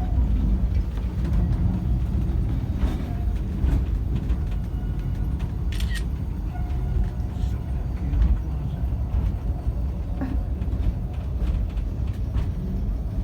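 Great Orme cable-hauled tram car running along its track with a steady low rumble. A few sharp clicks punctuate it, the strongest about six seconds in.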